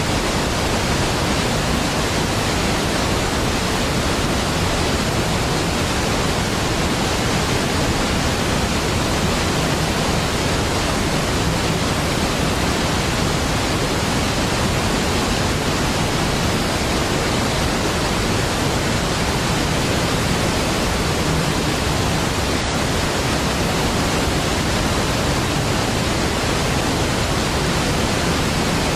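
Niagara Falls: a large waterfall's steady, deep, unbroken rush of falling water, an even wash of noise with no changes.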